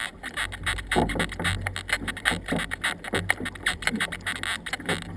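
Canoe under paddle: irregular splashes and knocks of paddle strokes against water and hull, over a low rumble of wind on the microphone.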